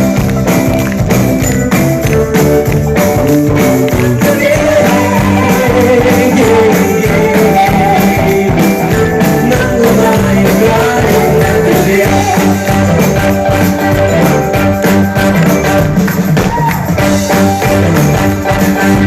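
A rock band playing live in a sixties rock-and-roll style, with a steady drum beat and tambourine.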